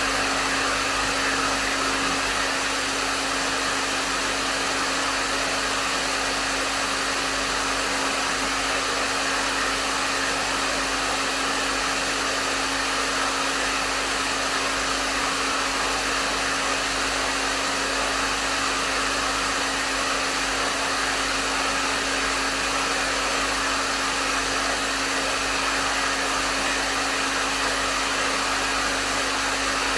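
Hair dryer running continuously at a medium setting: a steady rush of airflow with a constant motor hum underneath, unchanging.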